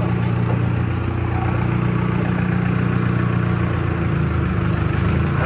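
Tractor diesel engine running steadily at low speed.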